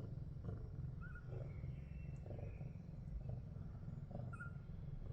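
Domestic cat purring close up: a steady low rumble that swells and eases with each breath, about once a second.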